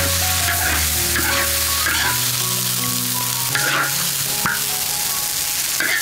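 Food sizzling in hot oil in a large wok, with a metal spatula scraping and stirring across the wok now and then.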